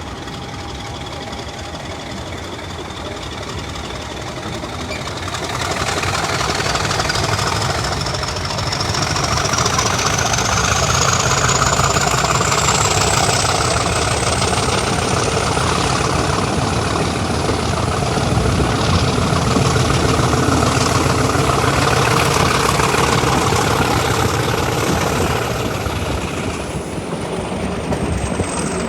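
Class 50 diesel locomotive's English Electric 16-cylinder engine running, getting louder from about six seconds in as it works harder. A thin turbocharger whine rises slowly and steadily in pitch over some twenty seconds, then drops away near the end, over a low, even rumble.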